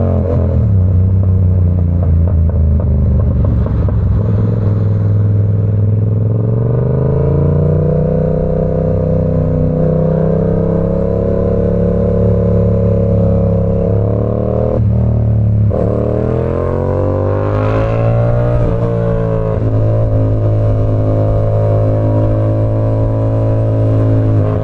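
Yamaha R7's parallel-twin engine through an SC Project CR-T exhaust while riding: the engine note falls right at the start, climbs steadily about seven seconds in, drops sharply about fifteen seconds in, then rises again and holds at a steady pitch.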